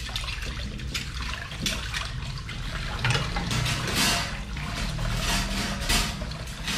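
Water running from a kitchen tap and splashing irregularly over dishes being washed in the sink.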